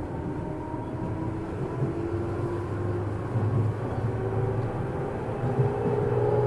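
JR East 205 series electric train running, heard inside motor car MoHa 205-287. The traction motors whine in several tones that slowly rise in pitch as the train gathers speed, over a low hum and the rumble of the wheels on the rails.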